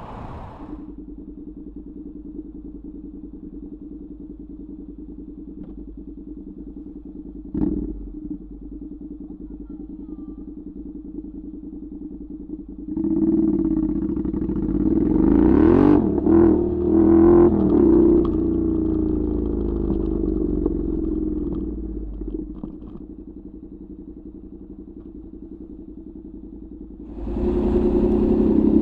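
Honda NC700X parallel-twin engine with a Danmoto XG-1 aftermarket exhaust idling steadily, with one short knock about a third of the way in. About halfway through it gets louder and its pitch shifts up and down as it revs. It then settles back to idle and picks up again near the end.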